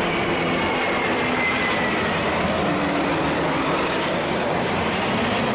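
Airbus A321 jet airliner's engines during a low pass: a steady rushing noise, with a faint whine gliding down in pitch and a higher whine joining about halfway through.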